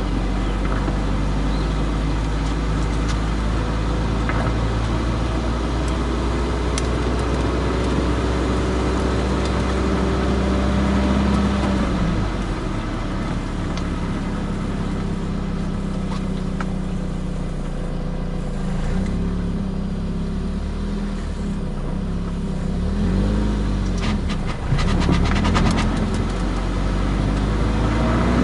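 A car being driven, heard from a camera mounted under the rear bumper: steady road and tyre noise with the engine's hum, whose pitch wavers up and down about two-thirds of the way through, and a few short ticks near the end.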